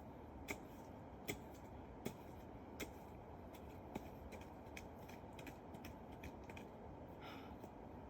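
A digging tool striking soil in faint, sharp strokes, about one every three quarters of a second for the first few seconds, then softer and less regular: yams being dug out by hand.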